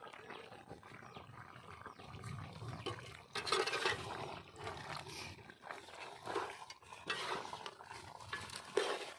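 Metal ladle stirring and scraping chicken pieces in a pan, with irregular clattering scrapes, the loudest about three and a half seconds in and again near the end.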